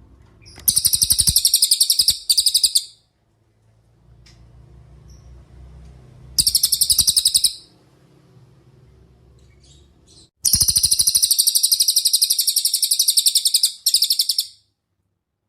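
Cililin songbird singing in very rapid, high-pitched trills: a bout about half a second in, another in the middle, and a longer one in the second half, with a short break inside the first and last bouts.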